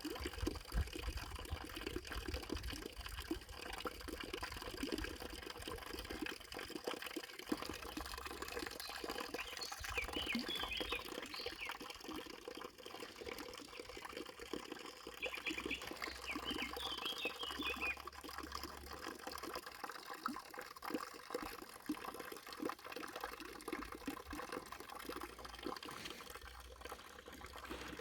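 Water trickling and splashing steadily, as from a small stream, with two brief bursts of short high chirps about a third and two-thirds of the way through.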